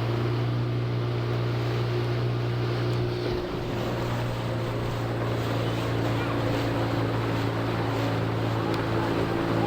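Boat outboard motor running at a steady speed, with wind and water noise from the hull moving across the lake. The motor's note dips slightly about three and a half seconds in.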